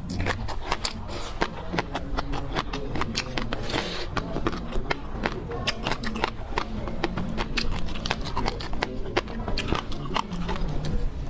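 Close-miked mouth sounds of someone eating seafood: a quick, irregular run of wet clicks and smacks from chewing.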